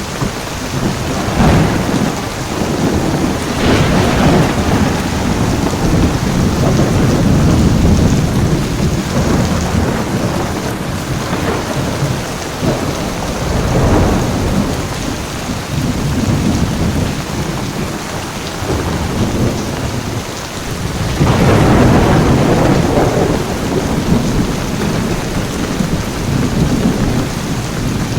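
Heavy rain falling steadily, with rolls of thunder rumbling through it again and again; the loudest roll comes about three-quarters of the way through.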